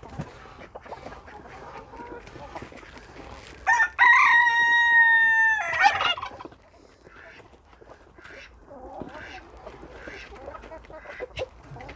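Chickens clucking softly around the run, and about four seconds in a rooster crows once, a loud, long, level-pitched call lasting about two seconds that drops off at the end.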